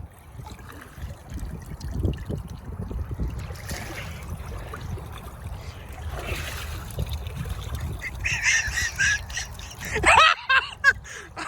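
Pond water splashing and trickling as a man steps off a submerged ledge and falls in, then wades. Loud voices break out near the end.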